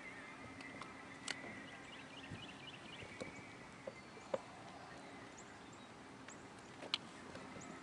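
Quiet lake ambience with a few sharp clicks and knocks, about three of them standing out, and a brief run of high chirps a couple of seconds in.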